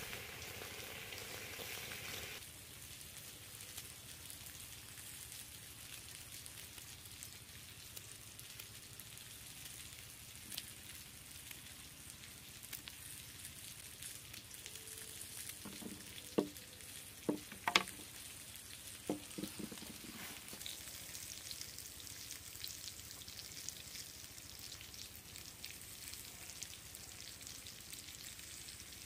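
Pork and mushroom skewers sizzling in oil in a wok over a wood fire, then a fainter steady sizzling hiss. Midway comes a cluster of sharp snips from scissors cutting fresh red chillies into a coconut-shell bowl.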